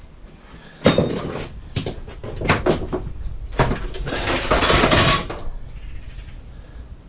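Scrap metal being handled and sorted: a sharp metal clank with a short ring about a second in, a few lighter knocks, then a longer scraping, rattling noise.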